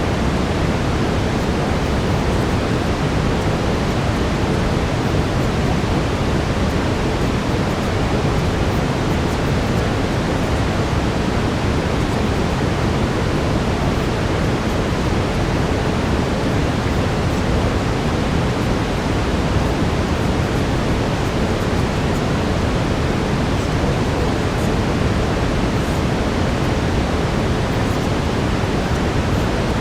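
Steady brown noise, a deep even hiss, strongest in the low end, unchanging throughout.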